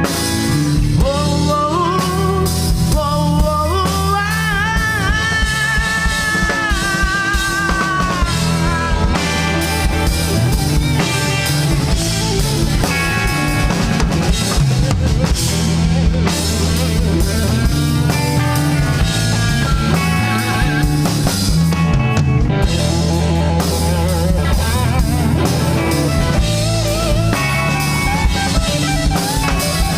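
Live rock band playing an instrumental passage: electric guitars over bass and a drum kit, with a sustained, wavering lead guitar line for the first several seconds.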